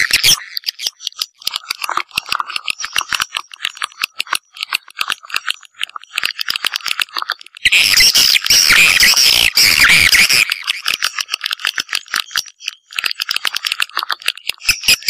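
Swiftlets calling: rapid chattering twitters and clicks that come thick and fast. The clicking is thinner and quieter at first, then grows louder and busier about halfway through and again near the end.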